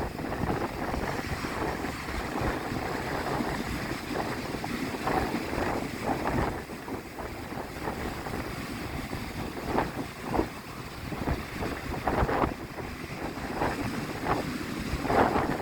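Strong wind buffeting the microphone with a steady low rumble, over sea waves breaking and splashing, several splashes standing out every second or two.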